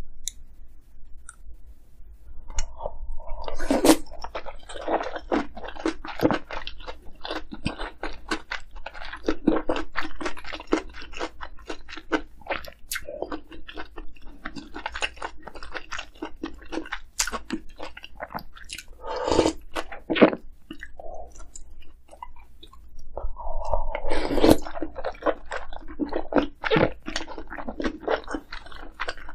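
Close-miked chewing of dumpling soup and kimchi, with crisp crunching. It starts a few seconds in and continues in dense runs, with a short pause about two-thirds of the way through.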